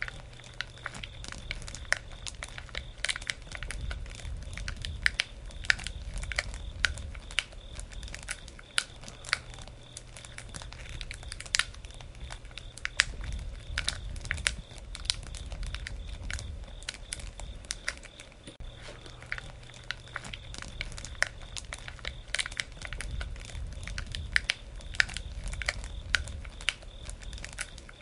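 Campfire crackling: a steady stream of sharp pops and snaps from burning wood over a low rumble of flame that swells and eases a few times.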